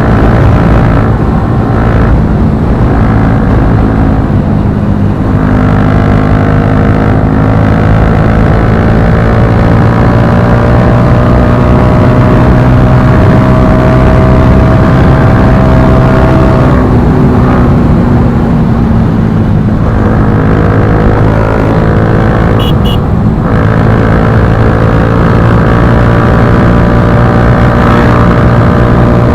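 Bajaj Pulsar NS160's single-cylinder engine through an Akrapovic slip-on exhaust, running under way with its pitch climbing steadily for several seconds, dropping off about two-thirds of the way through, then climbing again.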